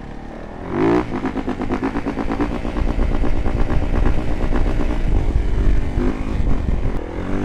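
Dirt bike engine revving up sharply about a second in, then running with the throttle held open, with quick throttle blips near the end.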